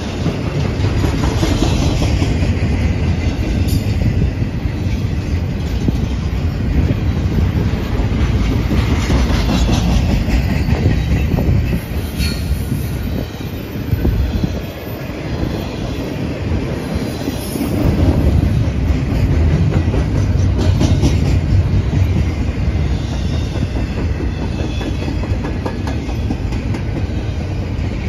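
A double-stack intermodal container train's well cars rolling past in a steady low rumble, with wheel clatter and now and then a brief high squeal from the wheels.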